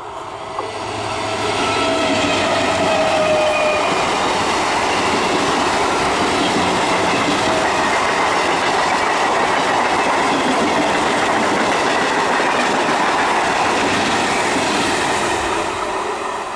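Electric multiple unit (EMU) local train passing close by at speed: the wheels running over the rails build up over the first two seconds into a loud, steady rush of carriages going by, easing off near the end.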